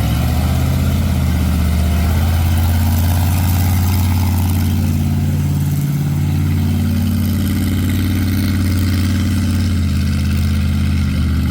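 An engine idling steadily nearby with a low, even hum, typical of a truck at a show ground.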